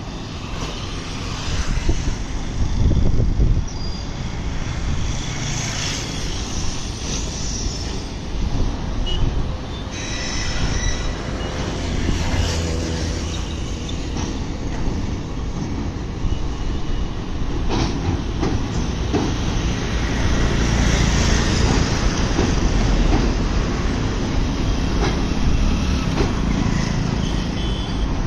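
Diesel-hauled passenger train rolling across a sea bridge: a steady low rumble from the locomotive and coaches, with scattered clacks and faint high wheel squeals from the steel wheels on the rails.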